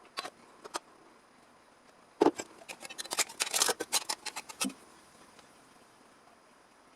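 Hand tools working sheet metal: two single sharp clicks, then from about two seconds in a rapid cluster of sharp metallic clicks and snips lasting about two and a half seconds.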